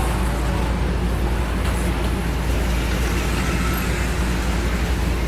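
Steady low electric hum and whir from an HO model layout in operation, with a faint high motor whine about three and a half seconds in.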